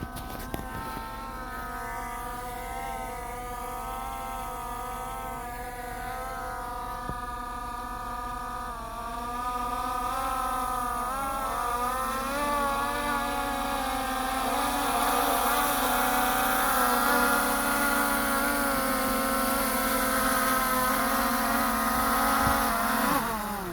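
Skydio 2+ drone's propellers whining as it hovers and manoeuvres in to land, several tones wavering in pitch. It grows louder about halfway through, with a quick dip and rise in pitch, and cuts off suddenly near the end.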